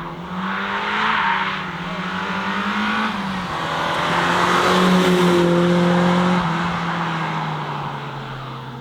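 BMW M3 E30's four-cylinder engine under hard acceleration as the car drives past. The pitch climbs, drops at a gear change about three seconds in, then the sound peaks around halfway through and fades away.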